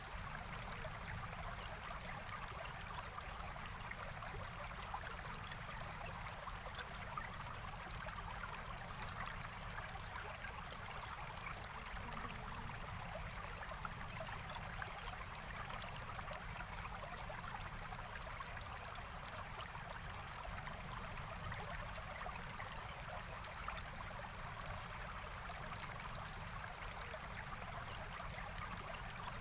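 Small forest stream flowing steadily, a continuous even rush and trickle of water with no breaks.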